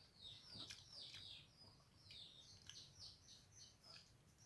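Faint chirping of small birds, a quick run of short falling chirps, several a second.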